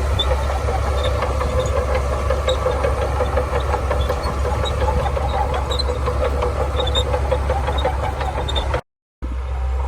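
Shantui bulldozer's diesel engine running steadily under work, with light ticking and clatter over the drone. The sound cuts out for a moment near the end.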